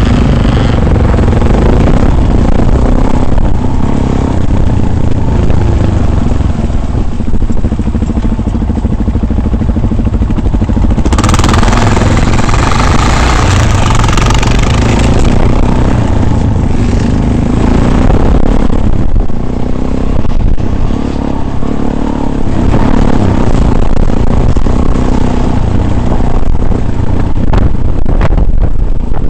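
Off-road vehicle on the move: a loud, steady low rumble, with a rushing hiss for a few seconds around the middle.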